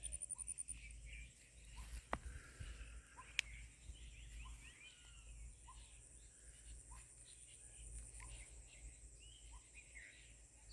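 Wild birds chirping and calling, over a high insect trill that is loudest at the start and fades to a faint steady buzz, with short soft notes about once a second. Two sharp clicks stand out, about 2 and 3.5 seconds in.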